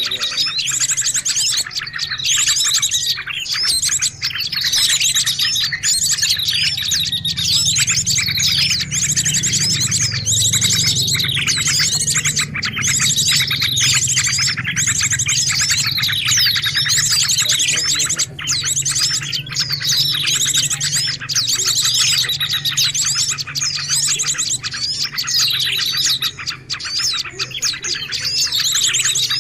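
Bird-lure recording of small songbirds: a dense, continuous chorus of overlapping chirps and twitters with rapid high trills, over a low hum.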